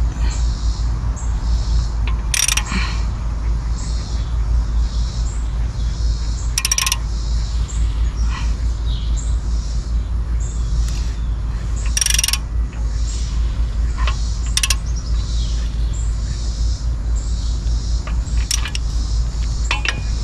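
Mechanic's metal hand tools working on an engine: a repeating rasp like a ratchet being worked, broken by half a dozen sharp metallic clinks, over a steady low rumble.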